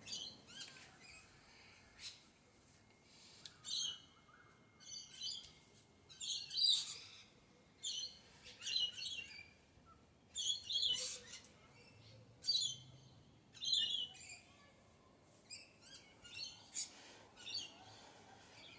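Birds chirping in short, high-pitched bursts, about one burst a second.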